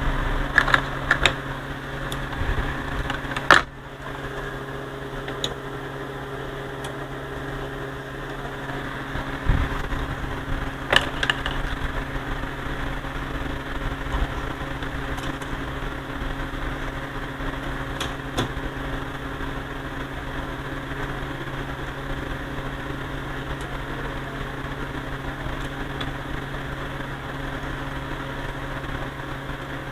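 Steady hum from the electronics on a repair bench, with a few short clicks and knocks as controls are adjusted, the loudest about three and a half seconds in.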